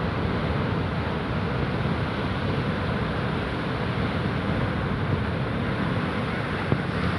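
Rough sea: waves and surf making a steady, unbroken rush, with wind buffeting the microphone.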